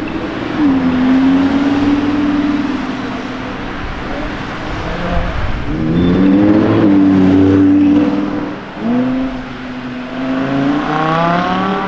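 Performance car engine pulling away. It holds a steady note at first, then revs rise about six seconds in, the loudest part, and climb again near the end as it accelerates.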